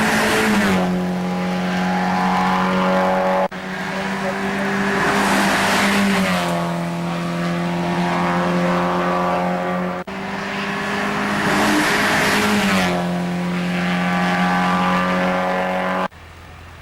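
Mazda MX-5 race cars' four-cylinder engines at high revs passing by, the pitch dropping as each goes past, heard in three passes split by abrupt cuts. Near the end the sound cuts to a much quieter low hum.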